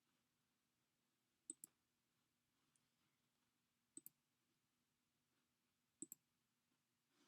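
Near silence with a faint steady hum, broken three times by a quick pair of small clicks, each pair about two seconds apart.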